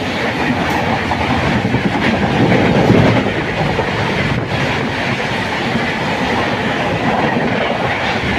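The 12503 SMVT Bengaluru–Agartala Humsafar Express running on the track, its coach wheels clattering over the rails in a steady, loud rumble that swells slightly about three seconds in.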